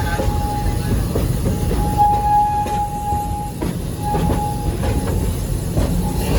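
Narrow-gauge park train rolling along the track: a steady rumble of the wheels with faint rail clatter, and a thin wheel squeal that comes and goes about four times.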